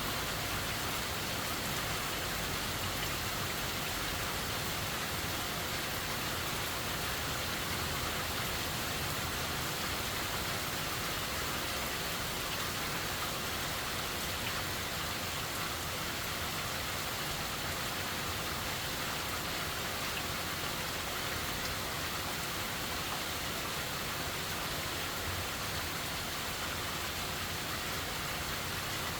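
Steady heavy rain falling, an even unbroken hiss that neither builds nor eases.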